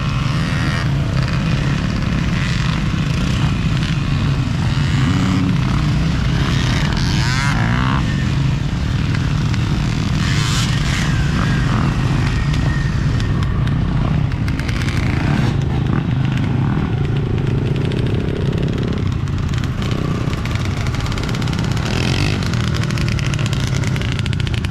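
Dirt bike engines running and revving on a grass track, one climbing in pitch as it accelerates about seven seconds in.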